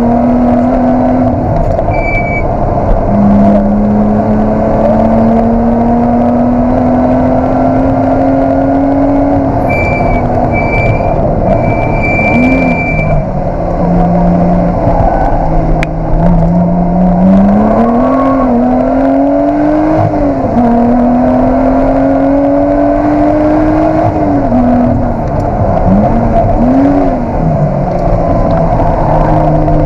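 Lotus Exige 360 Cup's supercharged V6 engine, heard from inside the cabin, driven hard along a stage. The engine note climbs steadily in each gear, drops abruptly at several gear changes, and rises and falls in short blips a few times in the second half.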